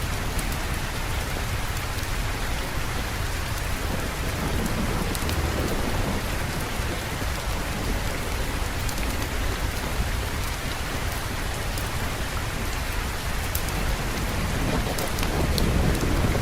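Steady heavy rain falling, with scattered sharp drop ticks. A low rumble of thunder builds near the end.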